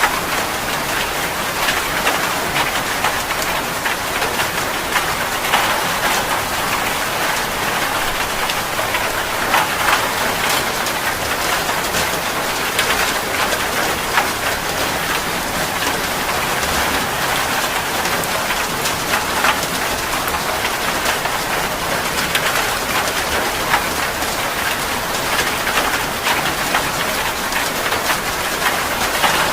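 Heavy rain falling steadily: an even hiss with many sharp individual drop hits.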